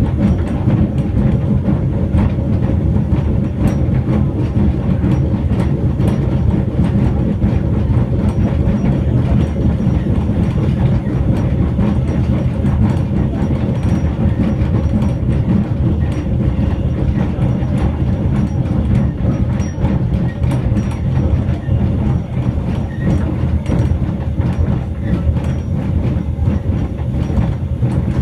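Train running along the track, heard from the side of a carriage: a steady low rumble with faint clicking from the wheels on the rails.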